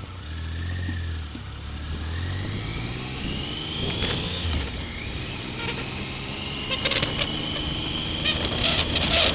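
Triumph Sprint ST 955i's three-cylinder engine accelerating, its whine rising in pitch for a few seconds and then holding steady. Wind buffets the camera's built-in microphone in short bursts near the end.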